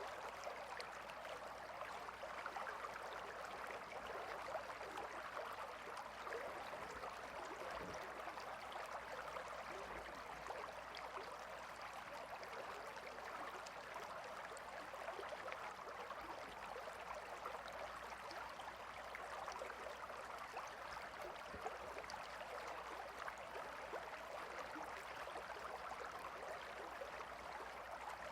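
Gentle river flowing: a steady, even babble of running water.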